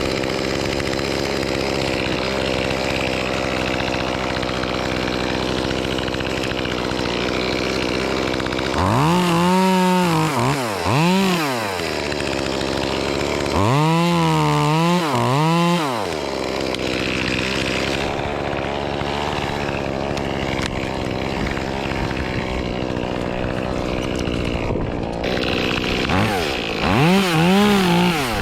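Echo CS-2511T top-handle two-stroke chainsaw running steadily, revved up in short rising-and-falling bursts several times.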